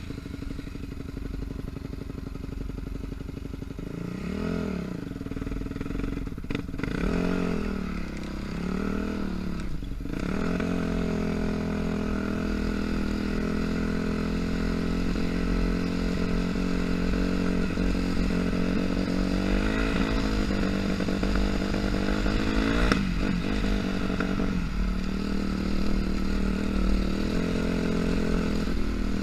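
Yamaha dirt bike engine revved up and down a few times in the first ten seconds, then held at higher, steadier revs with small changes as the bike is ridden.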